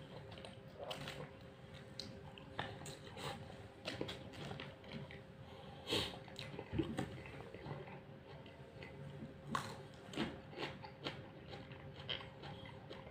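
Close-up eating sounds of a man eating chicken biryani and cucumber slices with his hands: chewing with irregular small clicks and smacks, over a faint steady hum.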